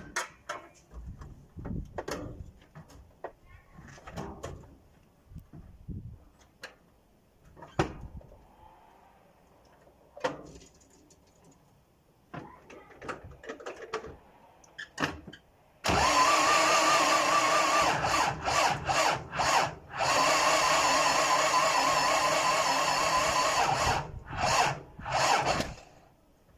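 An engine being cranked by its electric starter motor on a cold start: scattered knocks and clicks, then, about two-thirds of the way in, a loud whining cranking with a wavering pitch. It comes in several tries with short breaks and ends in two short bursts.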